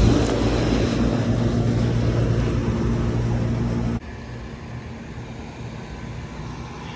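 Outdoor air-conditioner condensing units running: a loud, steady hum from the compressor and condenser fan with a low steady tone. About four seconds in it cuts off suddenly to a quieter steady unit hum.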